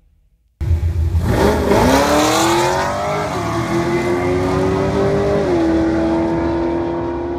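A car engine starts suddenly and revs up, its pitch rising over about two seconds, then holds a steady high rev. The pitch steps down slightly about five and a half seconds in, and the sound begins to fade near the end.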